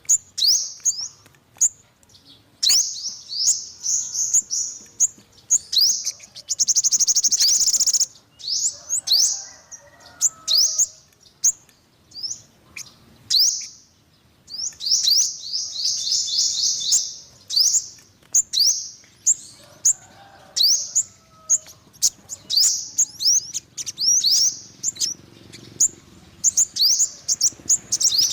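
Yellow-bellied sunbird singing: rapid, high, thin trills and sharp chirps, repeated in short bursts of a second or two with brief pauses between.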